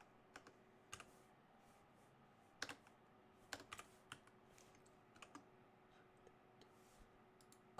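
Faint, scattered keystrokes on a computer keyboard, typed one at a time with pauses between them.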